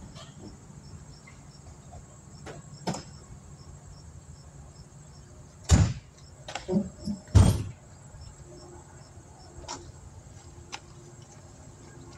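A few sharp knocks and clatters of brake parts and tools being handled, the loudest two about six and seven and a half seconds in. Under them runs a faint steady hum with a faint, regular high ticking.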